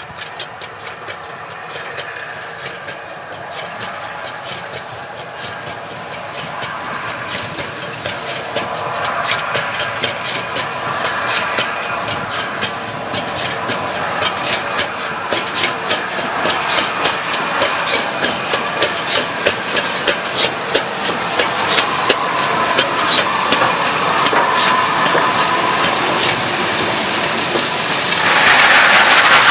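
Steam locomotive hauling a train toward the listener, growing steadily louder. Sharp rapid beats sit over a hiss of steam, and it is loudest near the end as it draws close.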